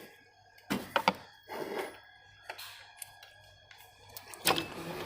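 Scattered metal clicks and knocks of a spanner, the belt tensioner and pulleys as the alternator V-belt is worked off a Toyota Innova engine, with a louder knock near the end.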